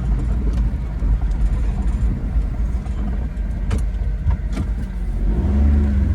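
Japanese mini pickup truck running while driving: a steady low engine and road rumble, with two sharp knocks or rattles about halfway through and a brief rise and fall in engine pitch near the end.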